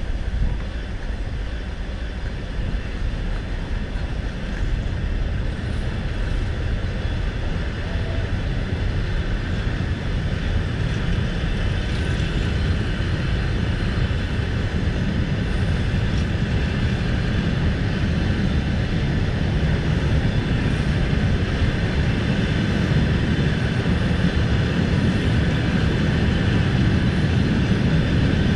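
Passenger train moving slowly out of a station, heard from a carriage window: a steady low rumble that grows gradually louder as it gathers speed.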